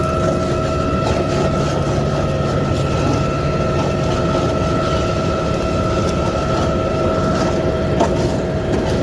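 Rear-loader garbage truck running steadily, a dense engine rumble with a steady high whine over it.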